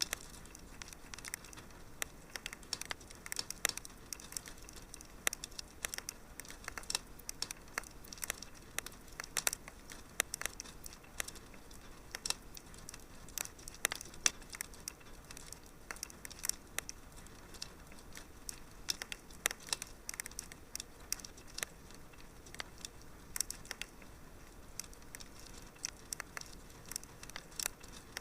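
Wood fire in a fireplace crackling: irregular sharp pops and snaps, several a second, over a faint hiss.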